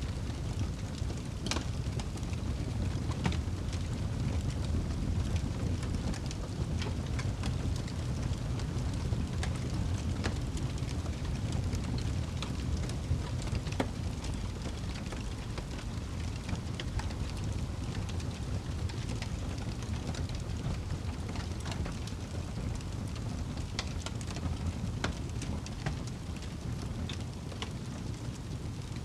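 Fire crackling in a fireplace: irregular pops and snaps scattered over a steady low rumble of burning.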